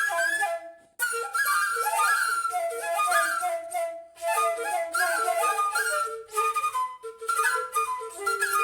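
Four flutes improvising together in a contemporary style, in short overlapping notes, quick runs and trills with audible breath. The playing stops briefly about a second in, then resumes.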